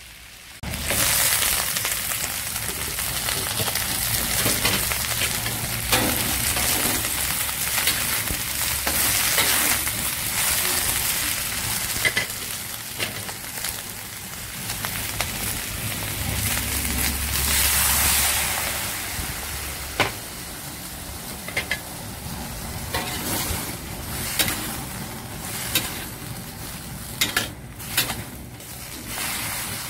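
Jumbo shrimp, garlic and baby cabbage sizzling in hot oil in a wok. The sizzle jumps up sharply about a second in, and sharp clicks of a metal spatula against the wok come now and then, more often near the end.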